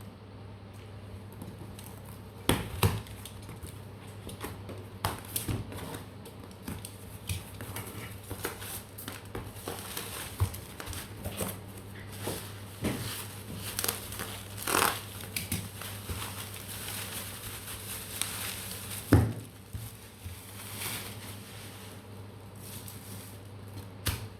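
A mobile phone's retail box and its packaging being handled: scattered knocks, clicks and crinkling of plastic or paper, with one sharper knock about 19 seconds in.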